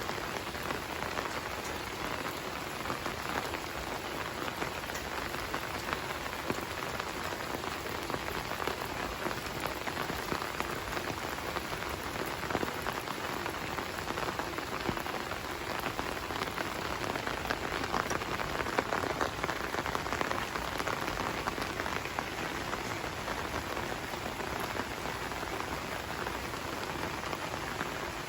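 Steady rain falling, a dense even patter of raindrops hitting surfaces.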